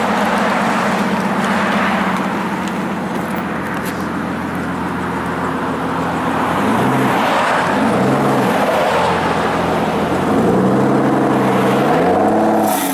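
Aston Martin DBS Volante's V12 engine idling steadily. Two short revs rise and fall partway through, and the engine note climbs once more near the end.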